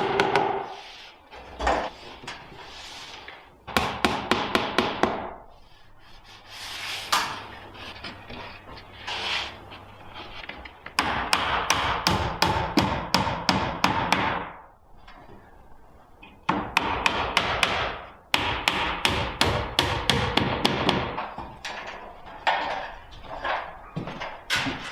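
Runs of quick, sharp knocks on wood, about six to eight a second, in bursts of a few seconds with short pauses between them.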